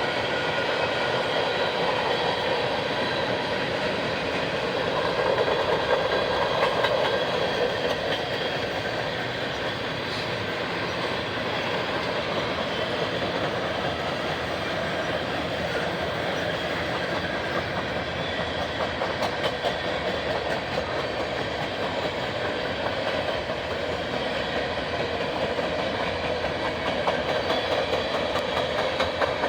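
Freight train cars rolling past on a Norfolk Southern line, a steady rumble with rapid clatter of wheels over the rail joints that holds without a break.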